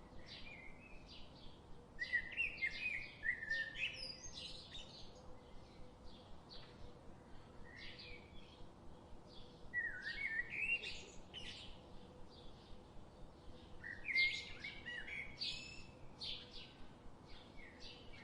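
Small birds chirping and twittering in quick short notes, with denser runs of chirps about two seconds in, around ten seconds and around fourteen seconds.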